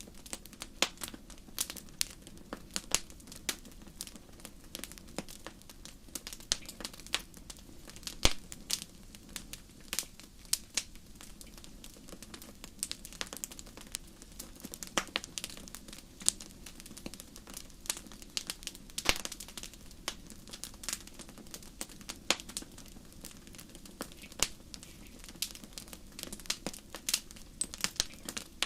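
Wood fire burning in a fireplace: irregular crackles and sharp pops over a low steady hum.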